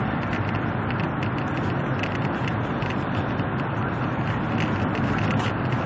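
Cabin noise inside a Chinese high-speed bullet train running at speed: a steady low rumble under an even hiss, with faint light ticks on top.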